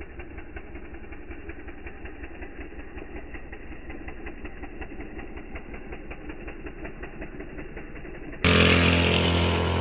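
Small 50cc two-stroke dirt bike engine running steadily with a fast, even beat. About eight and a half seconds in it cuts off and much louder music starts.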